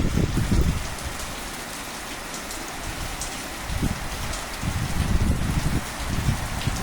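Afternoon rain shower falling steadily, with a low buffeting rumble at the start and again from about the middle on.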